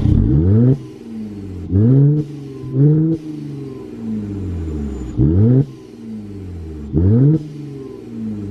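Mercedes-Benz car with an aftermarket exhaust revved in short throttle blips, about five times, the engine note rising sharply and falling back to a burbling idle between them.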